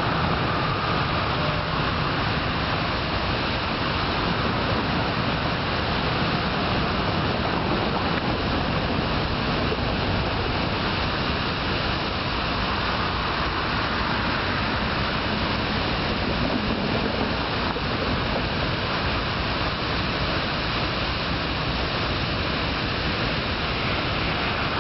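Steady rushing noise of a double-stack freight train rolling along the rails, even throughout with no distinct knocks or horn.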